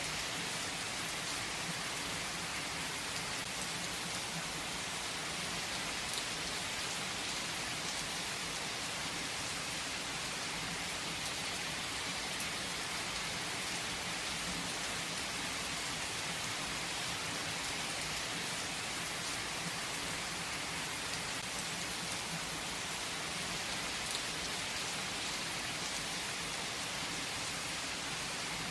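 Heavy rain falling steadily on tree foliage: a dense, even hiss with faint scattered drop ticks.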